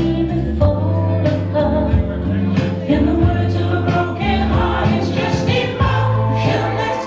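Live band playing a soft-rock song with singing over a steady bass line and regular beat.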